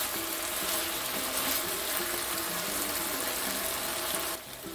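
Chicken pieces sizzling in a wok, a steady frying hiss that drops off sharply near the end. Soft background music plays underneath.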